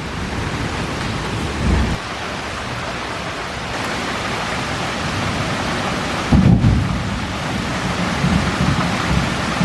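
Steady hard rain falling, with a brief low rumble about a second and a half in and a louder low rumble a little past six seconds.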